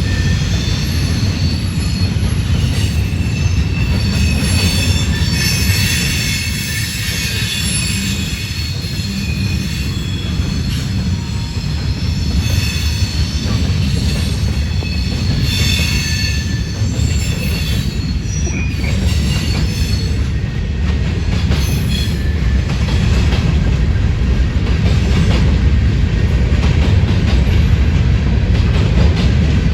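Freight cars of a manifest train rolling past: a steady low rumble of wheels on rail, with wheel squeal in high tones that come and go.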